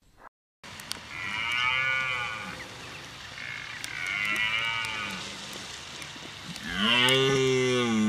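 Red deer stag roaring, its rutting call: three deep, drawn-out roars. The first two are moderate, and the third, starting near the end, is louder and longer.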